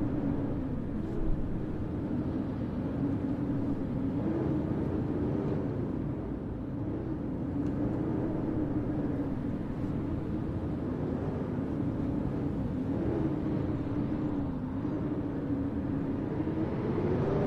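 Blizzard wind howling: a steady, slowly wavering moan over a low rumble.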